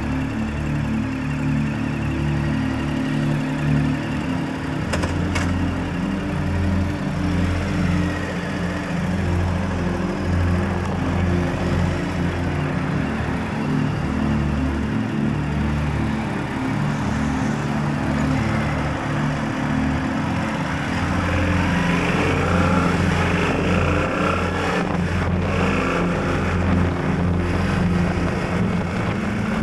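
Yamaha Tracer 7 GT motorcycle riding at road speed: the engine runs under heavy wind noise on the camera microphone, with some revving in the second half. Background music with a steady bass line plays along with it.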